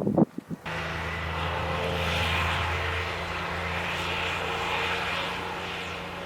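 A steady engine drone starts suddenly under a second in and runs on evenly.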